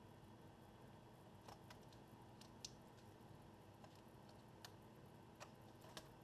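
Near silence broken by a few faint, scattered small clicks and taps as the laptop's keyboard and its ribbon-cable connector are handled and fitted.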